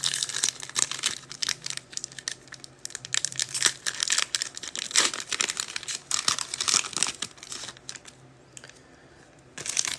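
Foil trading-card pack wrapper being crinkled and torn open by hand, a run of crackling that eases off about eight seconds in, then a short louder crinkle near the end.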